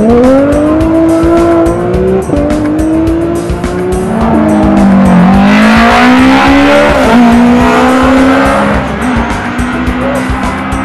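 Rally car engine at full throttle, its pitch climbing and then dropping back several times as it shifts through the gears, with a surge of tyre and gravel noise in the middle.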